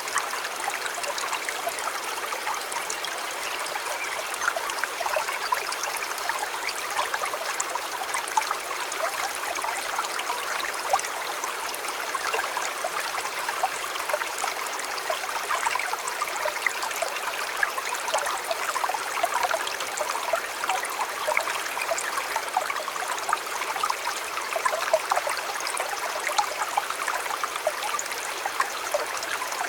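Shallow river water flowing steadily, babbling with many small splashes and trickles.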